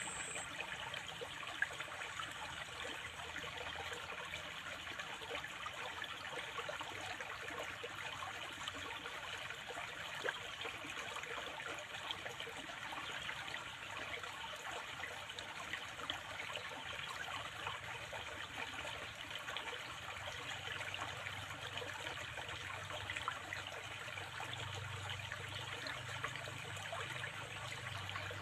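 Water flowing and trickling steadily, a continuous splashing babble with no break.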